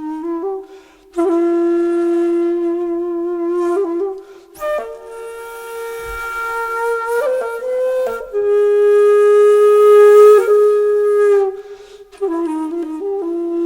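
Background music: a solo flute-like wind instrument playing slow, long held notes with breathy tone, stepping between pitches with short breaks between phrases.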